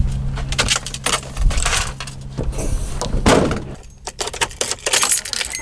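A run of short clinks, knocks and rattles of objects being handled, over a low steady hum that stops about a second and a half in.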